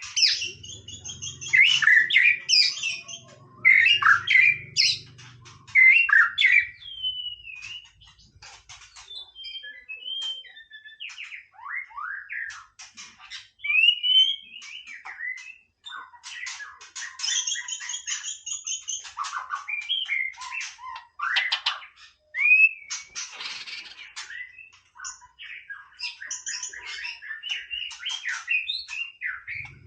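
White-rumped shama singing a varied, continuous song of clear whistles, pitch glides and rapid clicking rattles, loudest in the first six seconds.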